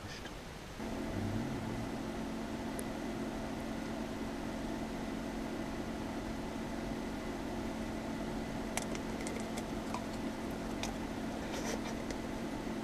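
Electric toothbrush switched on about a second in and buzzing steadily while it brushes a pet's teeth, with a few faint clicks and taps near the end.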